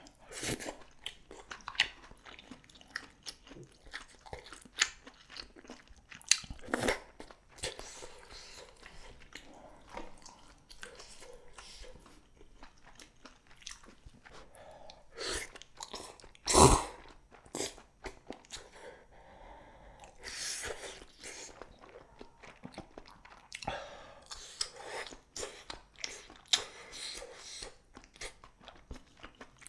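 Close-miked eating of spicy cheese jjimdak (Korean braised chicken): steady chewing and biting with many small wet mouth clicks. One louder, sharper sound stands out about two-thirds of the way through.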